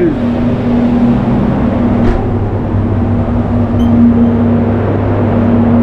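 Steady machine hum with a constant rush of air, as from paint spray booth fans running.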